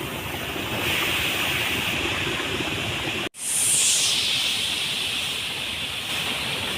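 Steady rushing water noise. It cuts out for an instant about three seconds in, then resumes a little louder.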